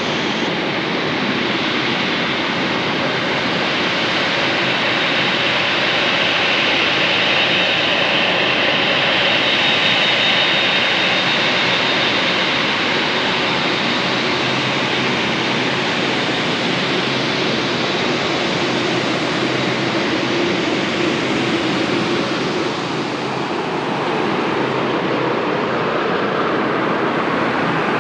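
Jet airliner's engines passing low overhead on final approach to land, a steady rush that swells to its loudest about ten seconds in, with a thin high whine at the peak, then eases off.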